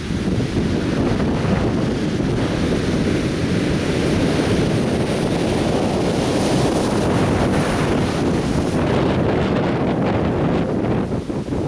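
Atlantic Ocean surf breaking and washing onto the beach, with wind buffeting the microphone as a steady low rumble. The surf swells brighter around the middle.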